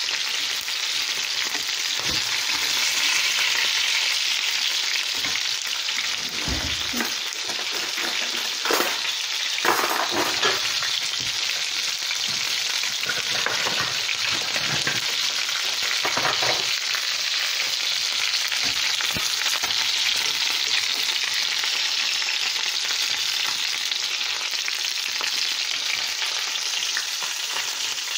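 Chicken pieces sizzling as they fry in hot oil in a stainless steel pan, a steady hiss. A wooden spatula turns the pieces, knocking against the pan a few times near the middle.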